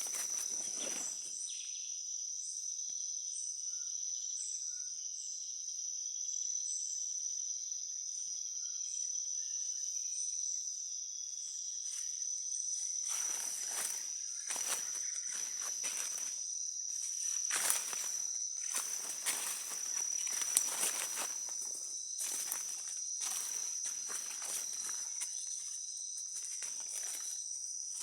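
Steady, high-pitched drone of rainforest insects, with a quicker chirping above it early on. From about halfway through, footsteps crunch and rustle through the leaf litter of the forest floor, roughly a step a second.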